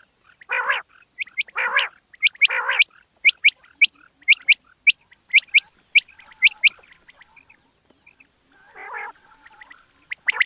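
Quail calling: a few short harsh calls, then a quick run of sharp rising chirps at about three a second, and one more harsh call near the end.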